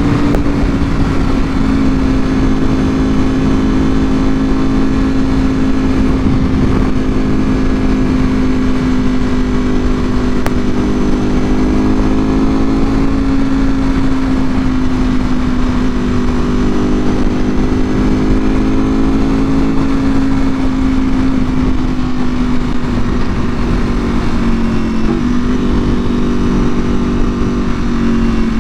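2024 Ducati Panigale V4R's V4 engine through an Akrapovic full exhaust, running at a steady cruise with its pitch drifting gently up and down and dipping slightly twice near the end, over a steady low rumble.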